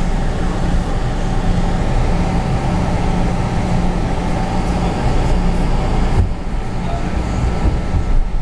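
Steady vehicle running noise: a low hum under a broad rush. The higher hiss drops away abruptly about six seconds in.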